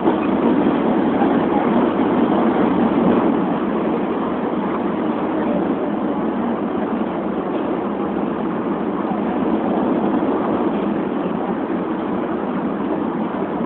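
Steady running noise of a Shinkansen bullet train heard from inside the passenger cabin at speed: an even rushing noise that holds level throughout.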